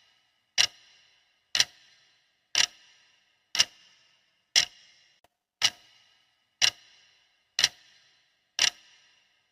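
Clock ticking steadily at one tick a second, each tick a sharp click with a brief ringing tail.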